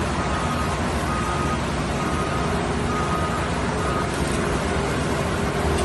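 Slinger truck's engine running steadily, with a beeping alarm sounding about once a second that stops about four seconds in.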